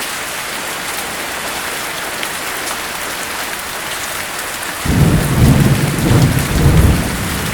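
Steady heavy rain falling, with frequent light drop ticks. About two-thirds of the way in, a deep rolling thunder rumble breaks in suddenly and surges several times.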